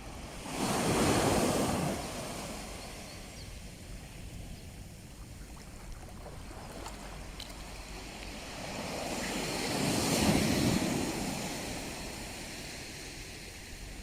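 Sea waves breaking on the shore: two waves swell and wash in, one about a second in and a bigger one around ten seconds, over a steady surf hiss, with some wind on the microphone.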